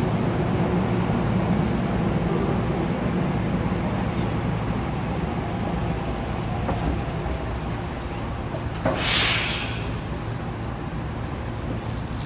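Saitama Railway 2000 series train running, heard inside the car: a steady rumble of wheels and running gear with a low hum. About nine seconds in comes a short hiss of air, about a second long.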